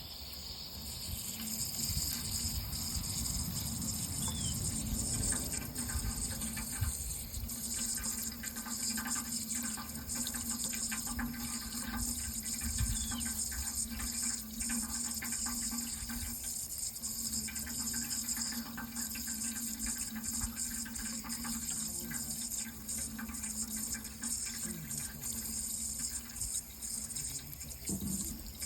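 Water running steadily, with a faint steady hum underneath.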